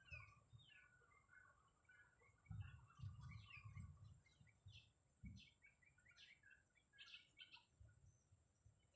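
Faint bird chirps and calls, many short notes and quick downward sweeps, with a few low rumbling bumps about two and a half to four seconds in and again around five seconds.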